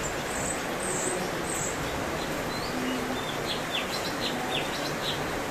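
A cucak cungkok singing: three high, arched whistled notes, then a quick run of short, sharp chirps from about halfway through, over a steady hiss.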